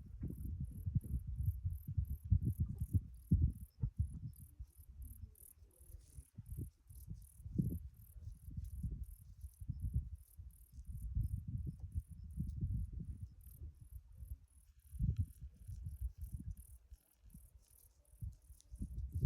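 Insects chirping in a steady high-pitched pulse of about five chirps a second, over a louder low rumble that rises and falls unevenly.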